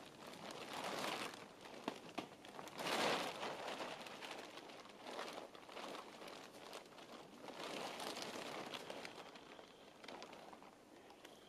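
Crinkling rustle of a plastic tarp being handled, coming in several swells with small clicks, loudest about three seconds in and fading toward the end.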